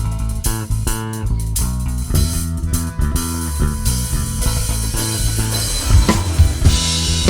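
Rock band playing an instrumental intro: bass and guitar notes carry the tune over a drum kit. The drums hit harder from about six seconds in, with a cymbal wash near the end.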